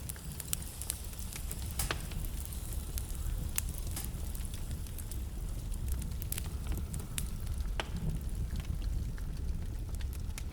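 Wood fire burning in a fireplace: a steady low rumble with sharp, irregular crackles and pops from the burning wood.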